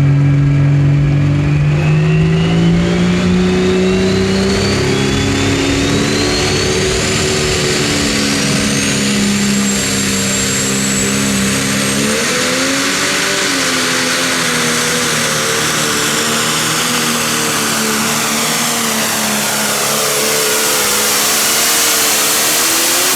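Pro Stock pulling tractor's turbocharged diesel engine running hard under load, its note climbing over the first few seconds while a turbocharger whistle rises steadily in pitch. In the second half the engine pitch wavers up and down.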